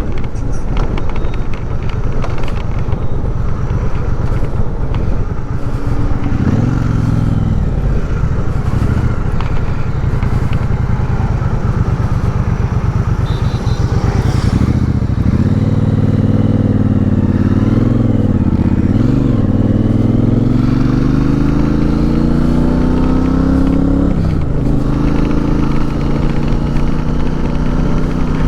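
Triumph Speedmaster 1200's parallel-twin engine running under way, its pitch climbing as it accelerates and dropping back at each gear change, most sharply near the end.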